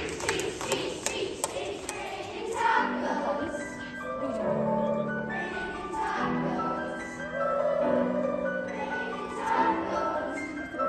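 A choir singing a song with instrumental accompaniment, holding long notes that change every second or so, with a few sharp taps near the start.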